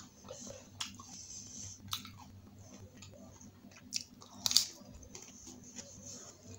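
Pani puri being eaten close to the microphone: crisp hollow puri shells filled with spiced water crunching and being chewed wetly, with a few sharp cracks. The loudest crunch comes about four and a half seconds in, as a fresh puri goes into the mouth and is bitten.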